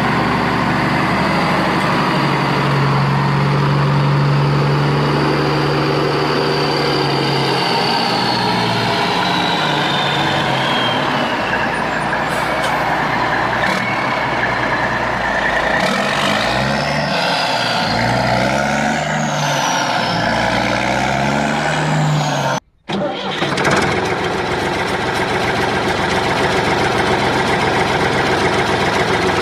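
A vehicle engine running steadily, revving up and down several times, with a brief cut about two-thirds of the way through before it carries on.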